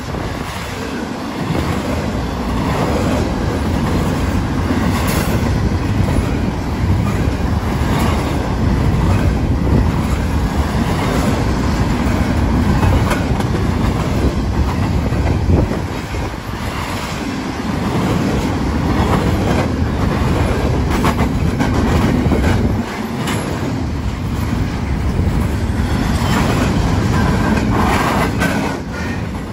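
Double-stack container freight train rolling past: a steady rumble of the cars on the rails with scattered clicks of wheels over the track.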